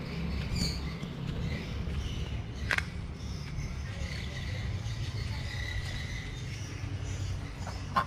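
Garden bird ambience: faint scattered chirps over a steady low rumble, with one sharp high chirp about three seconds in and a thin high tone held for a couple of seconds midway.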